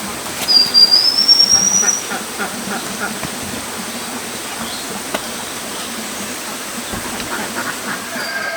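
Steady rushing of flowing water. A thin, high whistle rises in pitch about half a second in and lasts about a second and a half.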